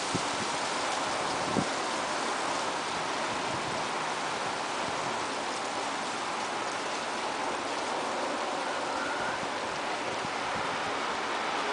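Rain falling steadily, an even hiss, with one sharper drip or tap about a second and a half in.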